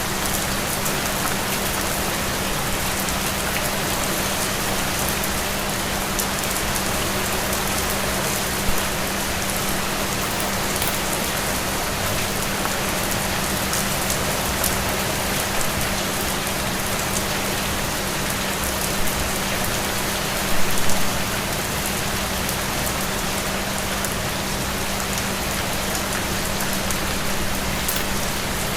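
Steady rain falling on a surface, an even hiss with scattered individual drops ticking, a few louder hits clustered a little over two-thirds through. A steady low hum runs underneath.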